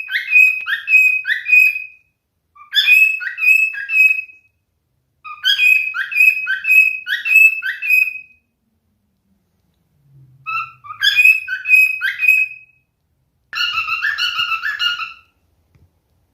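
Male pied cockatiel singing: five whistled phrases, each a quick run of repeated rising notes, separated by pauses of about a second. The last phrase, near the end, is a rougher chatter.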